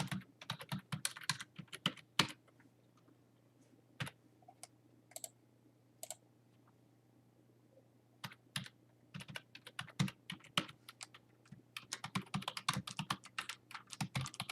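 Typing on a computer keyboard: quick runs of keystrokes at the start and again over the last six seconds, with a few single key clicks in between.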